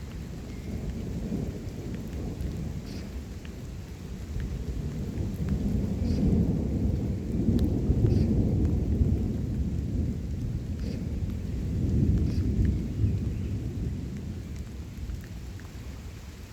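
Thunder rumbling over steady rain: the deep rumble swells a few seconds in, peaks through the middle with a second swell, and dies away near the end, with scattered raindrop ticks throughout.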